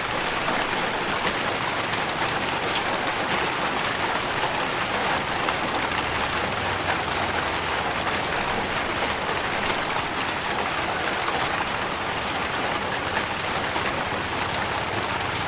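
Steady rain falling, with many small individual drop hits heard through the hiss.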